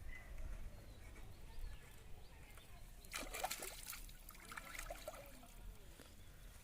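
Faint water trickling and sloshing, with a short cluster of small splashes a little after three seconds in and a few more near five seconds.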